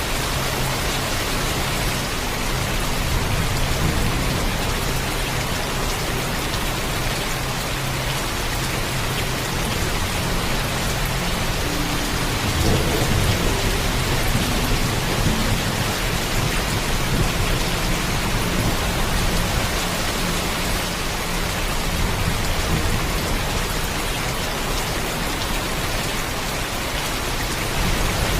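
Heavy rain falling steadily, with a low rumble of thunder underneath that swells slightly about halfway through.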